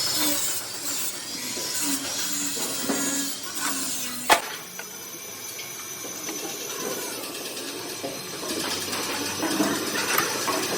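Metalworking shop noise: hiss and scattered clatter of tools, with one sharp knock about four seconds in.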